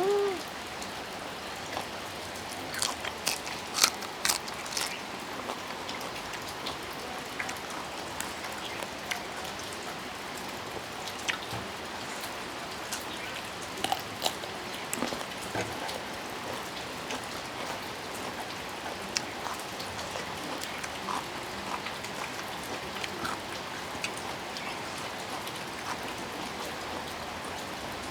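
Steady rain falling, an even patter throughout, with a cluster of sharp clicks or crunches about three to five seconds in.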